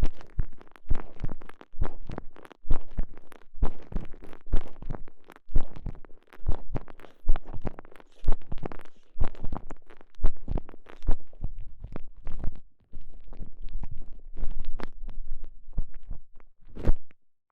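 Soft elastomer TENGA Egg sleeve being squeezed and rubbed around a microphone inside it, giving close, loud rubbing and squeezing noises in irregular strokes about one or two a second that stop just before the end.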